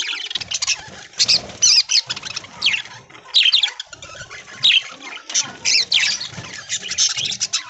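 A flock of budgerigars chattering, many quick high chirps and warbles overlapping continuously.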